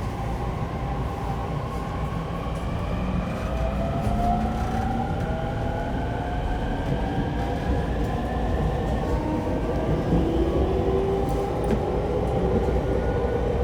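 E231-1000 series electric train heard from inside a passenger car, accelerating away from a station. The inverter and traction-motor whine climbs steadily in pitch over the constant rumble of the wheels on the rails.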